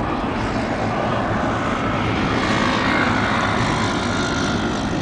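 Boeing 767-300ER's twin jet engines running at takeoff power: a steady, loud rushing jet noise that swells a little partway through.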